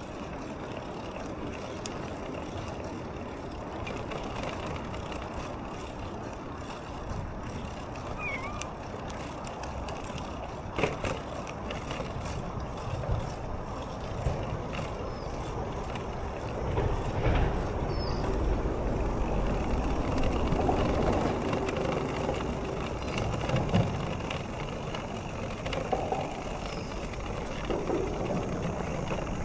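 Steady road and wind noise of a bicycle ride, with a few clicks and brief high chirps. The low rumble grows louder about halfway through.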